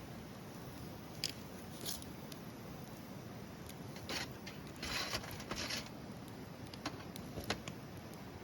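Wood fire crackling: a handful of sharp pops and short crackles, the biggest cluster in the middle, over a low steady rush.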